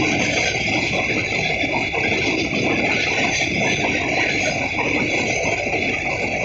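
Covered freight wagons of a goods train rolling slowly past close by: a steady rumble and rattle of steel wheels on the track, with a constant high-pitched whine over it.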